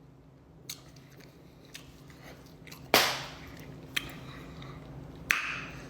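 Close-up crunching and clicking of someone eating a taco: a few sharp crunches at irregular intervals, the loudest about three seconds in, over a faint steady hum.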